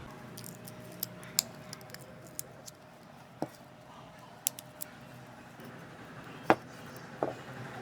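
Irregular sharp clicks and light taps of hard objects being handled, about a dozen spread unevenly, the loudest about six and a half seconds in, over a faint steady hum.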